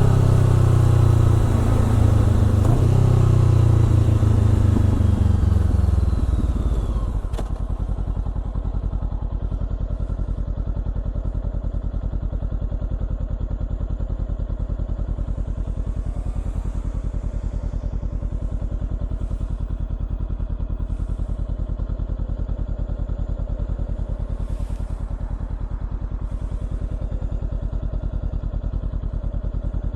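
Honda CBR400R parallel-twin engine through a Trick Star Ikazuchi aftermarket exhaust, revs falling as the bike slows for about the first seven seconds, then idling steadily with an even exhaust pulse.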